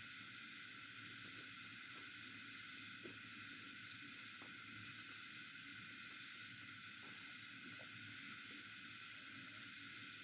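Faint insects chirping in a steady high drone, one of them pulsing evenly about three times a second, with a pause in the pulsing near the middle. A few faint soft clicks are heard.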